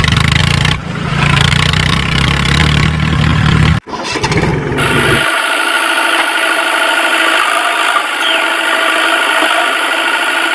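Vehicle engine sound running with a dense low rumble, cut off abruptly about four seconds in. After the cut comes a thinner, steady sound with a few held tones and no low rumble.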